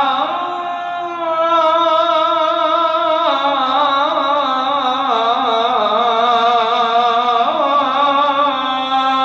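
A man's solo voice chanting the Islamic call to prayer (adhan), drawing out one long ornamented melisma within the phrase 'hayya 'ala l-falah' with a wavering vibrato. The held note steps down in pitch twice and rises again near the end.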